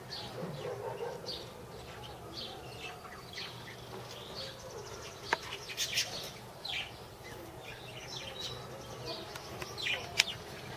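Birds chirping in short scattered calls over a faint steady low hum, with two sharp clicks, one about five seconds in and one near the end.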